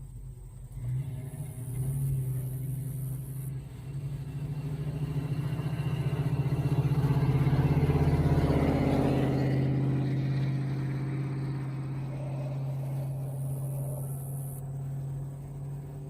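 A car engine running as a car drives slowly past. It swells to its loudest about halfway through and then fades away.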